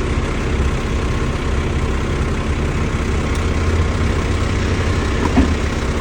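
Dump truck's diesel engine running steadily with a low rumble, and a single light knock near the end.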